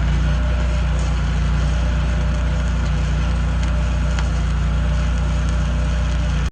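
Stick welding arc with a 7018 electrode, crackling and sizzling steadily over a loud, even low hum from the welding machine.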